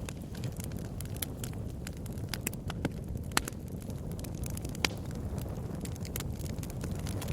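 Wood bonfire burning, with a steady low rumble of the flames and irregular sharp crackles and pops from the wood, two louder pops a little past the middle.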